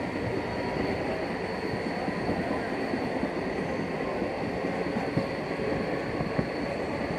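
Mumbai suburban local train running along the track, heard from aboard: a steady rumble with a faint steady high whine and a few sharp knocks.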